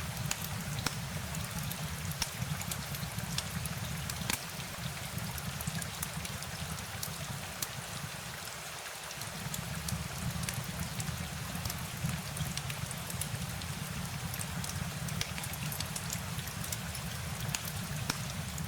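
Steady rain, with many separate drops ticking sharply over a continuous patter and a low rumble underneath. The rumble briefly drops away about nine seconds in.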